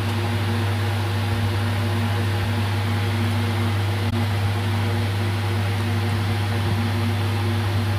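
Steady machine hum: a constant low drone with fainter higher tones above it, unchanging throughout.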